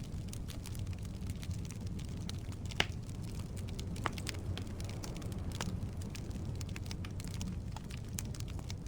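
Wood logs burning in a fireplace: a steady low rumble of flame with scattered sharp crackles and pops, the loudest pop near three seconds in.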